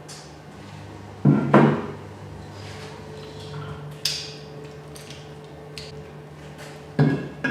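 Tools and engine parts being handled on a workbench: a pair of knocks, a bright metallic clink, then another pair of knocks near the end, over a steady low hum.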